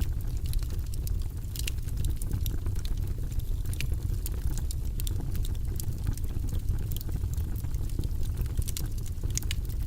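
Wood fire of burning logs crackling: frequent, irregular sharp pops and snaps over a steady low rumble of the flames.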